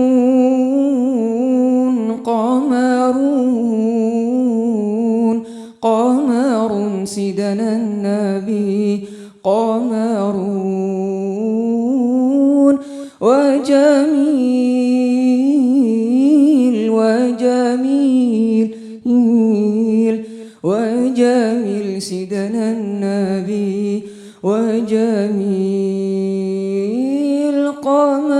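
Unaccompanied voice singing a wordless, melismatic introduction to a nasheed, in long held phrases with wavering ornaments, broken by short breaths every few seconds.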